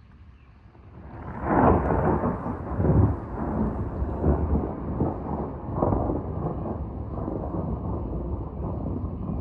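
Thunder: a loud peal breaks about a second and a half in and rolls on as a long, low rumble with several further surges, settling into a steadier rumble in the second half.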